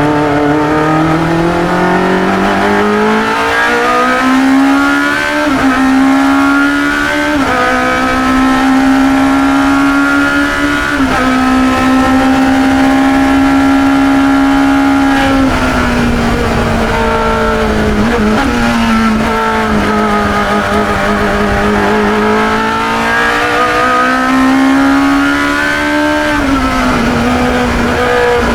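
Engine of a 1972 Chevron B21 two-litre sports racer at full race pace, heard onboard. The revs climb hard through the gears, hold high, fall away with a downshift past the middle, then pull up strongly again with another gear change near the end.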